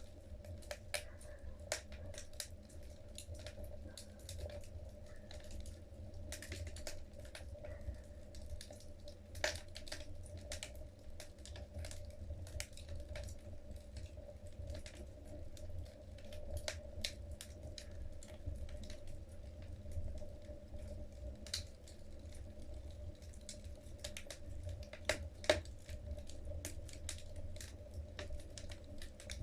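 Wood fire burning in a fireplace: logs crackling with irregular sharp pops and snaps, the loudest about nine and a half and twenty-five seconds in, over a steady low rumble of the flames.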